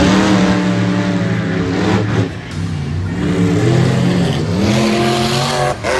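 Monster truck engine revving hard: the pitch jumps up at once, falls back about two seconds in, then climbs and holds high again before dropping near the end.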